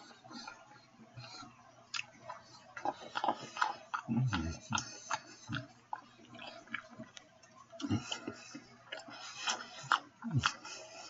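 A person biting and chewing a steak sandwich on a hoagie bun close to the microphone: irregular mouth clicks and smacks, with three heavier low thuds about four, eight and ten seconds in.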